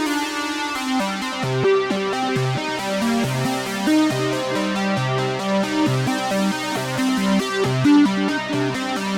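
Behringer Poly D analog synthesizer playing a fast sequenced pattern of short stepped notes, with a lower bass line joining about a second in.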